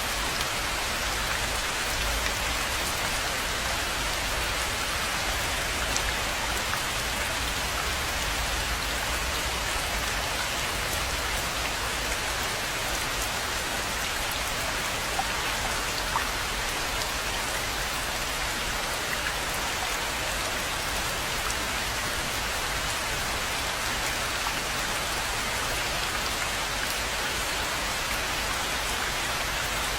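Steady rain falling on a rainforest pond, an even hiss with a few distinct drops standing out here and there.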